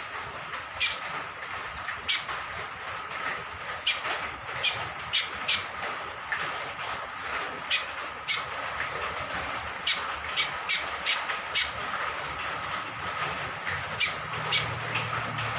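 Cucak kombok (kecial kombok) honeyeater giving short, sharp, high calls, singly and in quick runs of three to five, over a steady hiss of falling rain.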